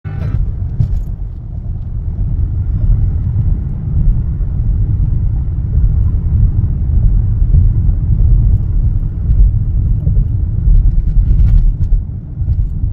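A loud, steady low rumble that wavers in level throughout, with a few faint clicks and no speech.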